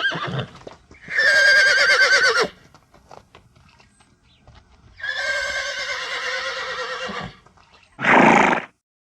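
Horse whinnying twice, each a long call with a wavering, quavering pitch, followed near the end by a short noisy blast.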